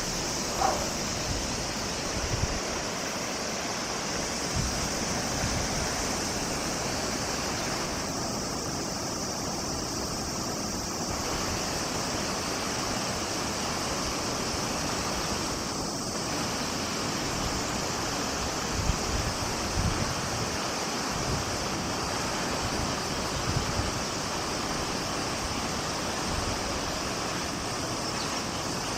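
The Yoshino River's water rushing in a steady, even wash, with occasional low gusts of wind buffeting the microphone.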